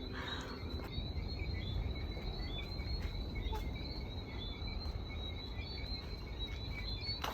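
A chorus of small chirping creatures: a steady high trill with many short chirps repeated over it, and a low rumble underneath.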